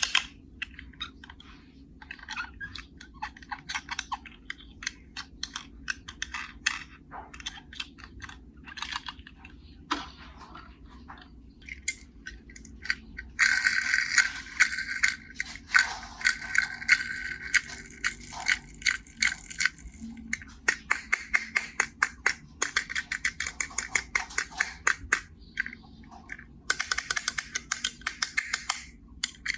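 Small die-cast toy cars and a plastic carry case being handled: irregular clicks and light clatter, with dense rapid rattling from about halfway through and again near the end.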